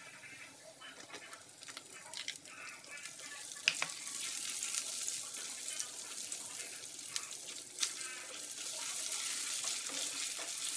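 Garlic sizzling in hot oil in a nonstick wok, stirred with a silicone spatula that scrapes and taps the pan. The sizzle grows louder about four seconds in as sliced onion goes into the oil.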